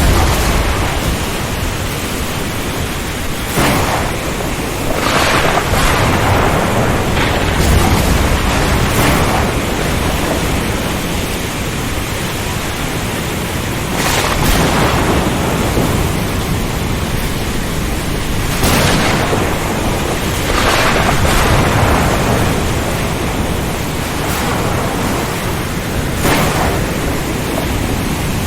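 Ocean storm: a steady rush of wind, rain and surf, broken about nine times by sudden cracks of thunder.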